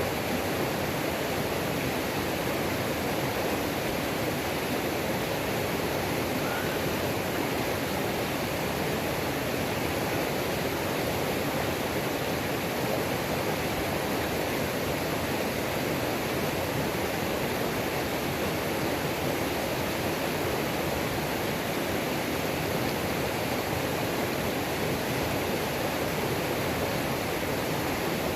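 A mountain creek waterfall rushing steadily, an even, unchanging roar of falling water.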